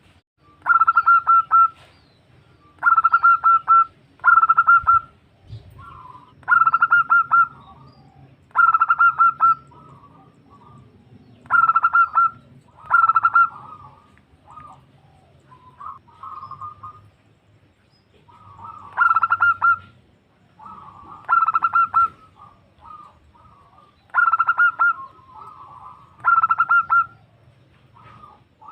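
Female zebra dove (perkutut) calling: about eleven phrases of rapid, stuttering coos, each about a second long, repeated every two seconds or so with a few softer notes between them.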